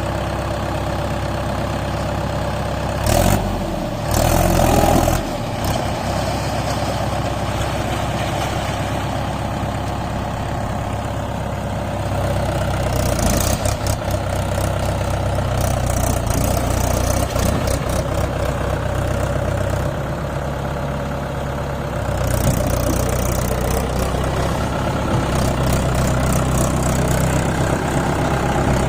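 Tractor engine running under the load of a fully loaded soil trolley, with a short loud burst about three to five seconds in. The engine gets louder about twelve seconds in and again about twenty-two seconds in.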